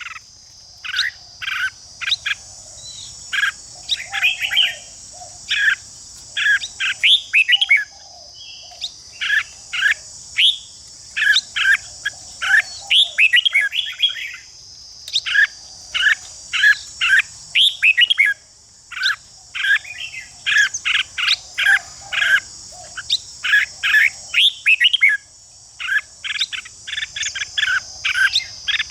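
Red-whiskered bulbul song: short, bright phrases repeated rapidly one after another with brief pauses, over a steady high insect buzz.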